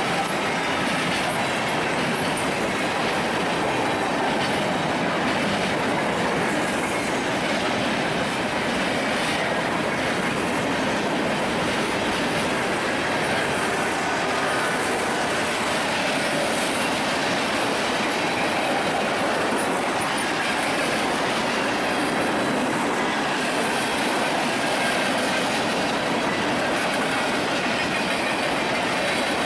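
Railroad cars rolling past, a steady, unbroken noise of steel wheels on rail with faint wheel squeal.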